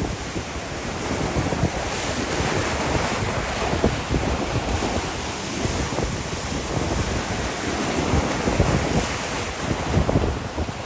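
Surf washing onto a beach under strong wind, with gusts buffeting the microphone in uneven low rumbles.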